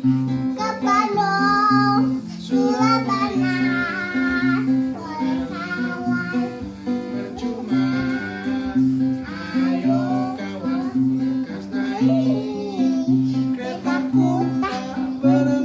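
A children's song: a child's voice singing over a strummed acoustic guitar with a steady, repeating bass pattern.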